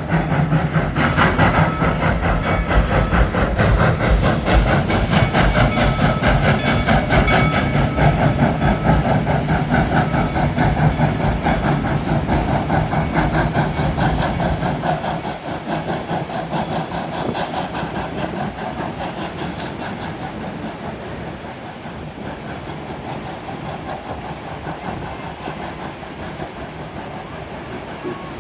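Baldwin 2-8-0 steam locomotive working under way with a train of gondolas: rapid exhaust beats and steam hiss over the rattle of the cars. It is loud for about the first half, then fades steadily as the train draws away.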